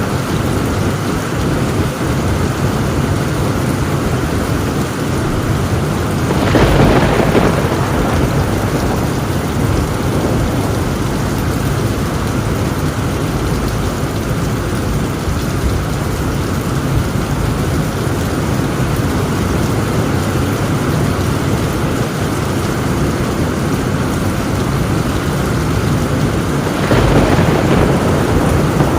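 Heavy rain falling steadily on a tin roof, with two louder rolls of thunder, one about a quarter of the way in and one near the end.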